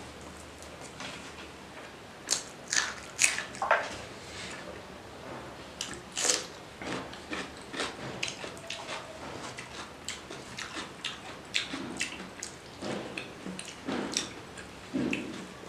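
A person eating rice and fish curry by hand: close-up chewing and wet lip-smacks, irregular sharp clicks coming every fraction of a second, with soft squelching as fingers mix rice and curry.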